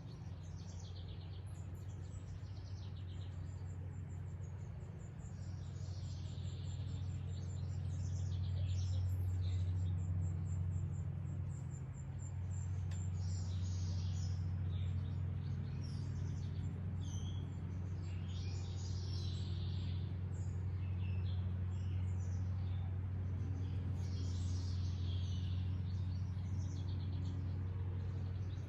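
Wild birds chirping and calling, with a high, even trill in the first few seconds, over a steady low rumble.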